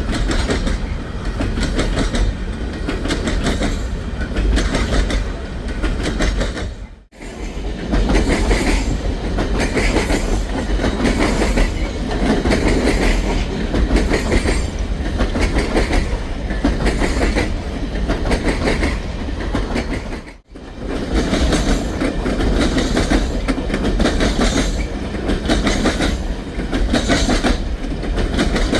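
A long string of empty coal cars rolling past, the wheels clicking rhythmically over the rail joints with steady rumbling. The sound drops out abruptly twice, briefly each time.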